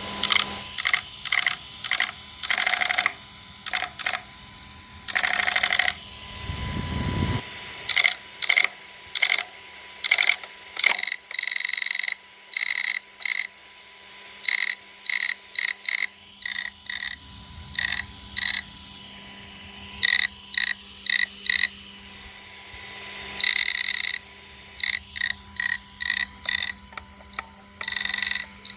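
Brushless motor and ESC of an ARRMA Kraton 6S BLX RC truck giving off a loud, high-pitched electronic whine in many short, irregular bursts, stopping and starting throughout. About seven seconds in there is one low sound falling in pitch. The whine is the abnormal loud motor/ESC noise the owner is showing.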